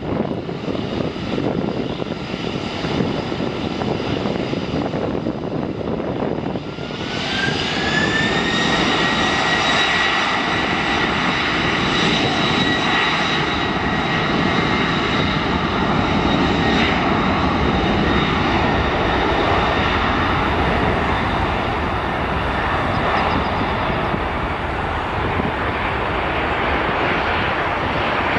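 Jet airliner's engines running close by: a loud, steady rushing noise, joined about seven seconds in by a high whine that rises briefly in pitch and then holds steady.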